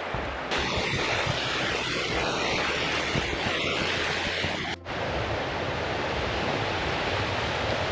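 Steady rushing of falling water from a waterfall. The hiss turns brighter and louder abruptly about half a second in and drops back just as suddenly near five seconds.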